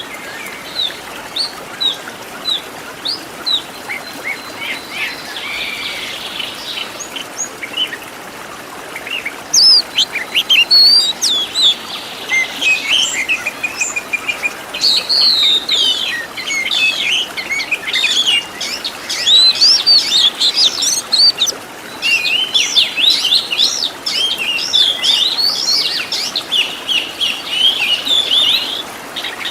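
Oriental magpie-robin (kacer) singing a long, varied song of quick whistled, sliding and chattering phrases, packed with the mimicked fill-in phrases called isian. It is softer for the first several seconds, then louder and denser from about a third of the way in, with a short break near the end.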